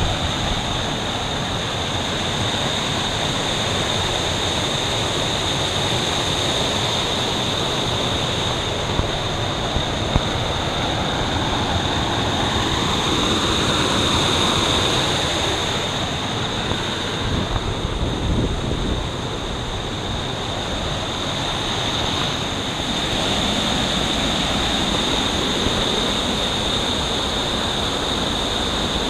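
Rushing water of a waterfall: a steady noise with little change, over which run two steady high-pitched tones.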